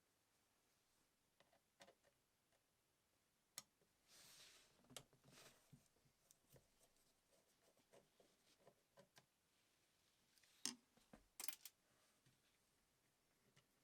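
Faint handling sounds: scattered light clicks and taps, with a short hissing rustle about four seconds in and a couple of sharper clicks and a brief rustle around eleven seconds in.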